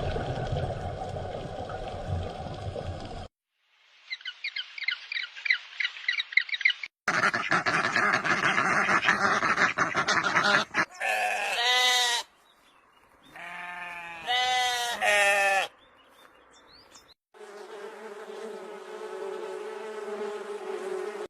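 A run of short clips of different animals calling, cut one after another with brief gaps: a rapid pulsing call, then several pitched calls, then a long steady call near the end.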